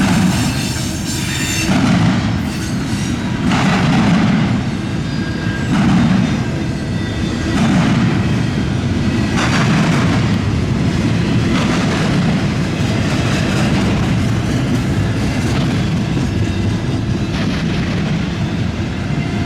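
Freight train's cars rolling past with a steady low rumble of wheels on rail. A harsher, higher wheel noise comes and goes about every two seconds during the first half, then evens out into the steady rumble.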